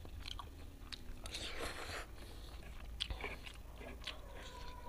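A person chewing a mouthful of fried instant noodles, with short irregular mouth clicks and smacks.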